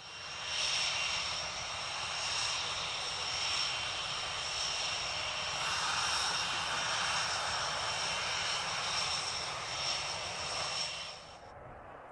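Panavia Tornado jets' RB199 turbofan engines heard from a distance: a steady rushing noise with a high whine over it, which stops abruptly near the end.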